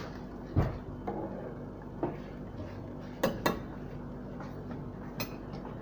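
A kitchen utensil knocking and clinking against a cooking pot while washed rice is added: a dull knock just after the start, a quick pair of sharper clinks a little past the middle, and one more near the end.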